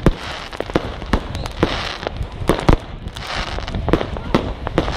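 Aerial fireworks going off: many sharp bangs and pops in irregular quick succession. Three spells of fizzing crackle come as bursts break into sparks.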